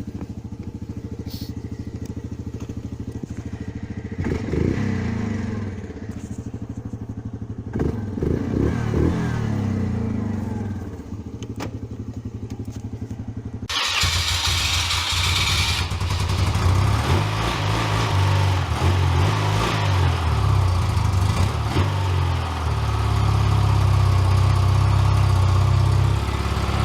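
A small engine idling, revved up briefly twice in the first half. About halfway through it changes abruptly to a louder engine at higher speed, held steady and high near the end.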